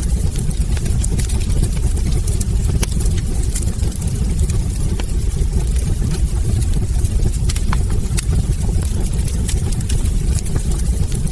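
Wood fire burning in a fireplace: a steady low rumble of flames with frequent sharp crackles and pops from the logs, scattered irregularly.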